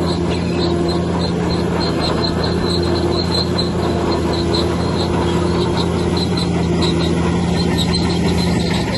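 Bulldozer's diesel engine running steadily, with a light high-pitched ticking about three times a second.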